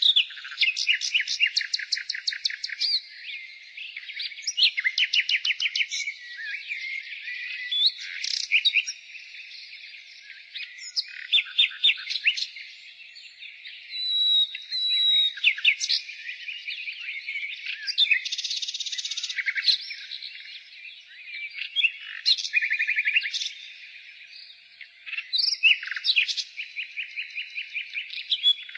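Nightingale singing: one phrase after another, many of them fast runs of repeated notes, mixed with whistles and trills, with short pauses between phrases.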